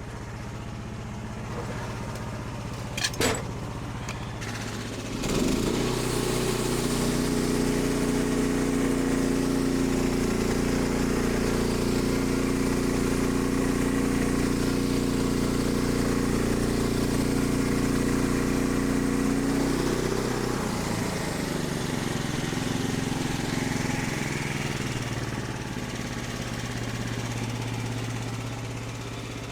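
An engine idling, with a sharp knock about three seconds in. About five seconds in the engine revs up and holds a steady higher speed for roughly fifteen seconds, then drops back to idle.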